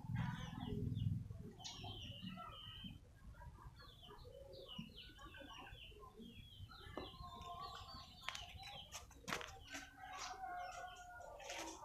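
Birds calling in the background: many short chirps throughout, with some longer, steadier calls and a few sharp clicks in the second half.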